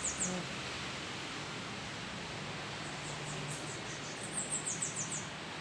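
A small bird singing a quick phrase of rapid high notes, which ends just after the start and comes again about three and a half seconds in, over a steady background hiss.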